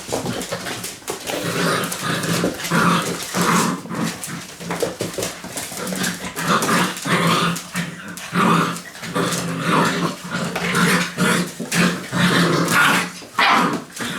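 Six-week-old Labrador puppies play-fighting, growling again and again in many short bursts. The growls come from rough play, which the owner reads as the puppies testing pack dominance.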